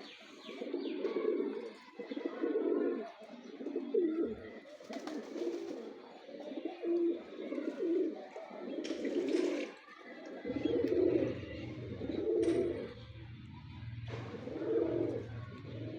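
Domestic pigeons cooing: low, rounded coos repeated about every second or so, around ten in all. A steady low hum comes in about two-thirds of the way through.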